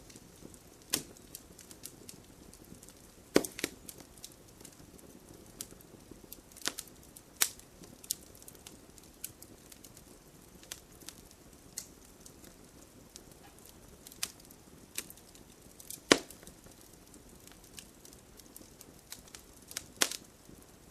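Wood fire crackling in a fireplace: scattered sharp pops and snaps at irregular moments over a low steady rush. The loudest pops come about three seconds in, about sixteen seconds in and near the end.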